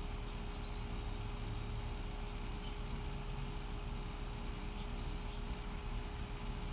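Small birds giving a few short, high chirps now and then over a steady low rumble and hiss of outdoor background noise.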